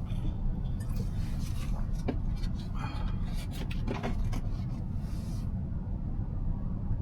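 Steady low road and tyre rumble inside a moving car's cabin, with scattered faint clicks and brief higher sounds that stop about five and a half seconds in.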